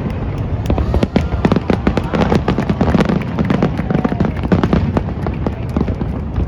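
Fireworks display: a dense, rapid crackle of many small cracks and pops over a continuous low rumble of bursting shells, with crowd voices underneath.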